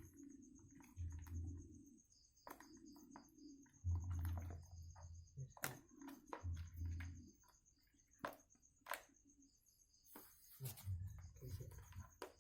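Night insects chirping steadily in a fast, even high pulse, with scattered sharp clicks and knocks and short, faint, low murmuring sounds.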